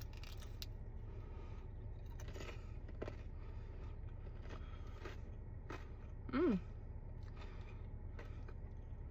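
Faint crunching and chewing from bites into a stuffed roll, with scattered small clicks and scrapes. About six seconds in comes a short, falling "mm" of approval. A steady low hum runs underneath.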